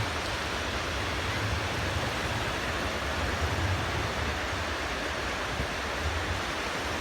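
Steady wash of outdoor beach ambience: sea surf and wind, with a low rumble of wind on the microphone and no distinct events.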